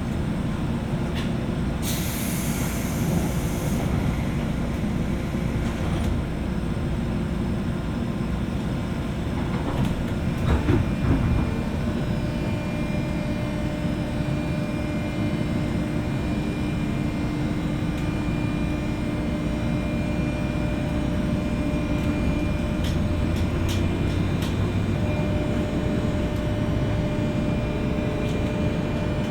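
Interior running sound of a JR West 201 series electric train, heard above the armature-chopper traction equipment of a motor car: a steady rumble of wheels and motors with thin steady tones. There is a short hiss about two seconds in, and a few louder knocks around ten seconds in.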